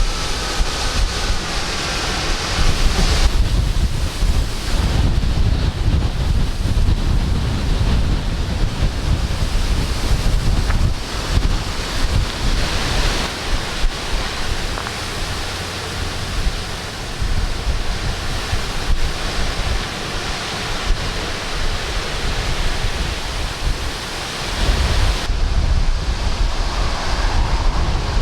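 Strong squall-line winds gusting over the microphone: a loud, rushing roar with heavy low buffeting that rises and falls. Near the end the high hiss thins and a steady low hum comes in.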